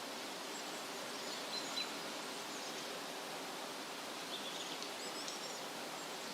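Steady rustle of wind through leafy trees, with faint high bird chirps about a second in and again past the middle.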